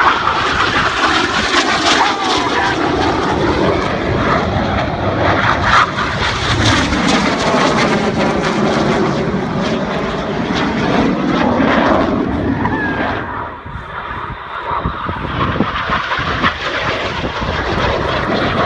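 Jet roar from the Red Arrows' BAE Hawk T1 jet trainers flying low past during their display, swelling and sweeping in pitch as they pass, dipping about two-thirds of the way through and building again near the end.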